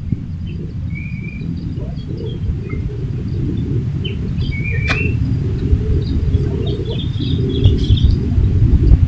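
Birds chirping a few short times, about a second in and again about five seconds in, over a steady low rumble.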